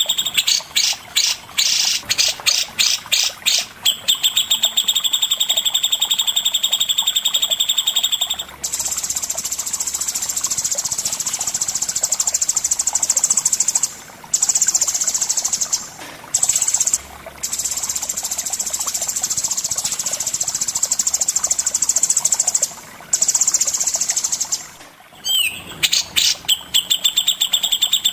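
Songbird singing fast, high trills. It opens with a stuttering run of rapid repeated notes and a buzzing trill, then a long dense trill broken by a few short gaps, and rapid repeated notes return near the end.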